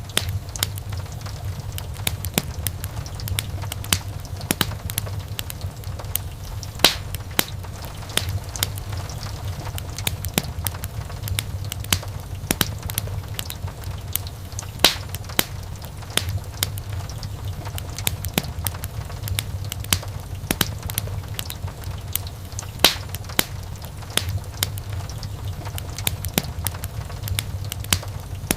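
Wood fire burning, with many irregular sharp crackles and pops over a steady low rumble of the flames; a few louder pops stand out.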